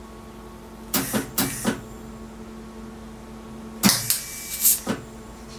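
Two short bursts of welding crackle, each under about a second: tack welds on new steel patch metal whose galvanized coating was ground off so the weld would take.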